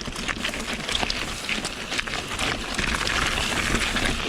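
Mountain bike rolling over a wet, rocky trail: a steady hiss of tyres on wet ground with many quick clattering knocks from the bike over the rocks.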